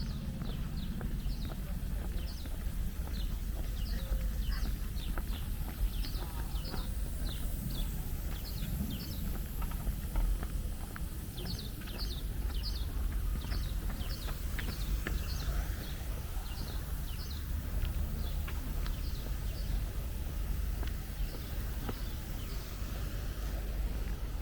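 Footsteps of someone walking, crisp steps at about two to three a second, over a steady low rumble of wind on the microphone.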